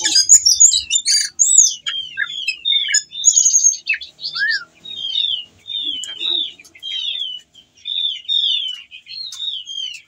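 Ciung batu (whistling thrush) singing a fast, varied run of short whistled notes, many of them falling in pitch and coming several a second. It is a male in breeding condition running through its full medley ('isian') of song phrases.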